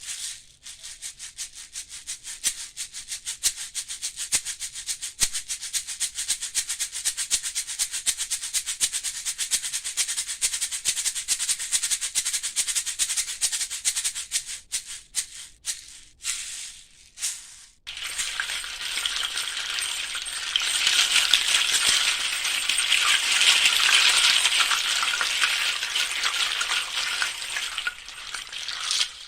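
A shaken rattle, like a maraca, making dense rapid clicking. After a few short breaks, at about 18 seconds it turns into a louder, thicker, continuous rustling.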